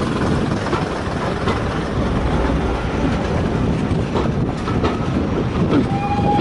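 Railway train running on the track: a steady rumble with the clickety-clack of wheels over rail joints.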